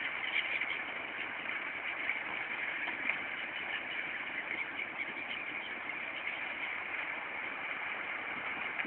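John Deere 6930 tractor's six-cylinder diesel running steadily as it pulls a four-furrow plough.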